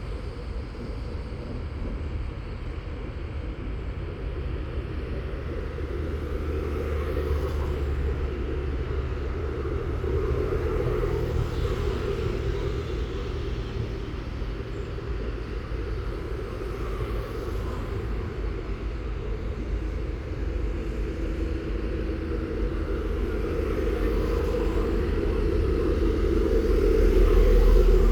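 Low, steady rumble of road traffic, swelling louder toward the end.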